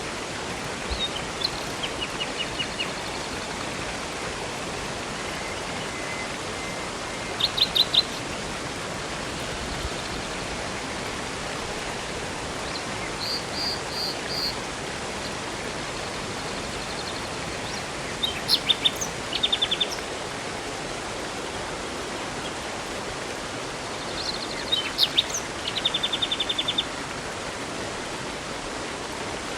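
Steady rush of a river and waterfall, with songbirds calling over it in short phrases of rapid high chirps and trills every few seconds.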